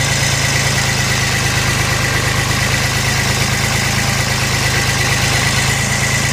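Yanmar FX18D compact tractor's three-cylinder diesel engine running steadily, with a steady high whine on top of it.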